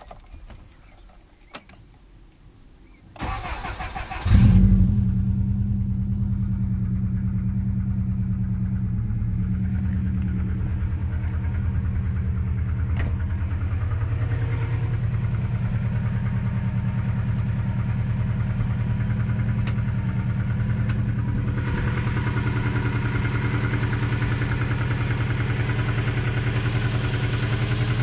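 Subaru Impreza GT flat-four boxer engine being cranked by the starter, catching after about a second with a brief flare, then settling into a steady idle with the rattling knock of piston slap. A higher whirring noise joins about two-thirds of the way through.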